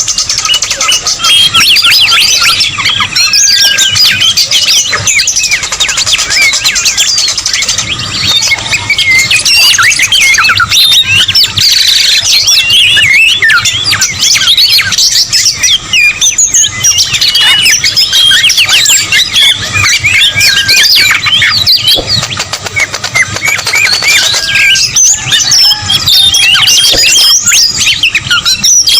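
Dense chorus of many birds calling over one another: quick overlapping chirps, squawks and short whistles, a busy bird-lure recording of several species mixed together, including whistling-thrush and whistler calls.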